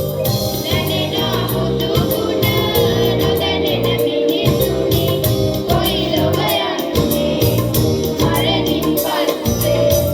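A group of voices singing a Buddhist devotional song to a steady accompaniment with a regular low beat.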